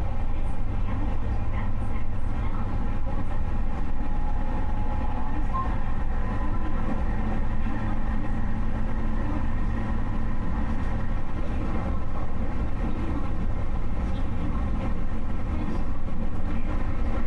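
Steady running noise of a JR Yamatoji Line electric train heard from inside the passenger car: a low rumble of wheels on track, with faint steady tones rising and fading in the middle and growing slightly louder near the end.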